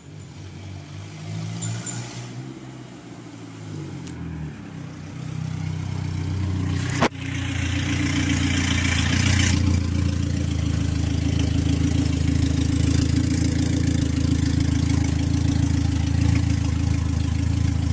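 Dodge Neon SRT-4's turbocharged four-cylinder engine drawing closer and getting louder. A sharp click comes about seven seconds in, then the engine runs steadily and loudly close by.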